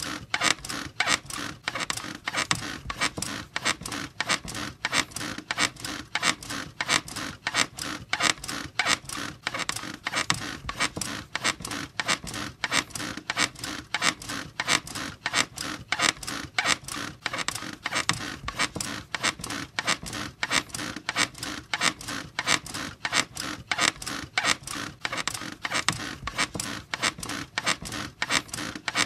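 Squeaky bed creaking in a steady, even rhythm, several squeaks a second, as if it were being rocked over and over.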